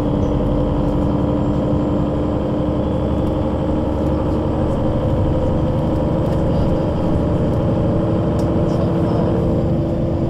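Solaris Urbino 12 III city bus with a Voith automatic gearbox, its engine and drivetrain running at a steady pitch, with a strong constant hum and low rumble.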